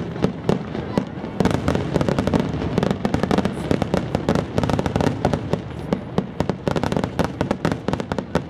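Fireworks going off in a dense, rapid run of sharp pops and cracks, many reports a second.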